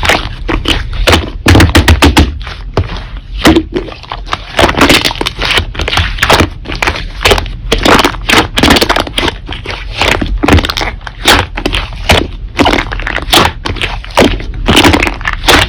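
Slime being pressed, stretched and folded by hand, with a dense run of irregular crackling and popping from trapped air bubbles and a few soft thuds.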